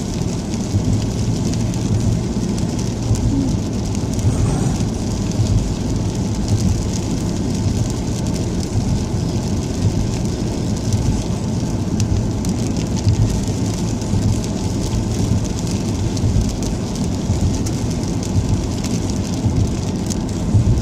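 A car driving in the rain: a steady low rumble of tyres on the wet road, with rain hiss over it.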